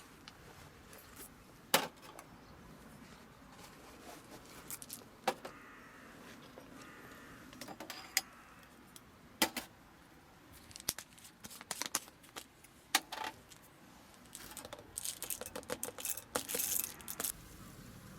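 Small hard objects being handled: scattered sharp clinks and clicks, then a busier stretch of clattering and crinkling about three-quarters of the way through.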